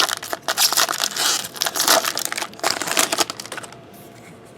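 Foil wrapper of a trading-card pack being torn open and crinkled by hand, a rustling crackle for about three and a half seconds before it stops.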